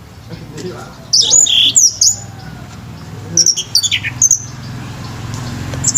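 Orange-headed thrush (anis merah) singing loud, short whistled phrases that sweep in pitch. There is a burst of song about a second in and another cluster about three and a half seconds in.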